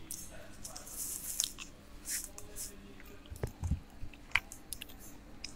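A man chewing a burger close to a clip-on microphone, with small mouth clicks and a paper napkin rustling. A couple of dull knocks come about three and a half seconds in, as a milk carton is picked up.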